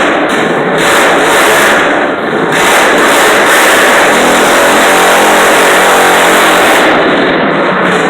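Pulling garden tractor's engine running hard at high revs under load, with a brief dip about two seconds in.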